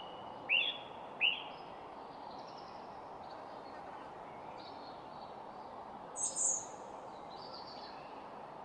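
Several wild birds calling over a steady background hiss: two short hooked calls in the first second or so, scattered faint chirps, and a sharper, higher call a little past the middle.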